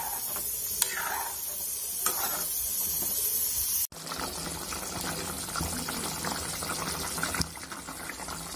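Hilsa fish and yam curry boiling hard in an aluminium pot, a steady bubbling hiss. A metal ladle clicks and scrapes against the pot while stirring in the first couple of seconds. The sound cuts out for an instant about four seconds in.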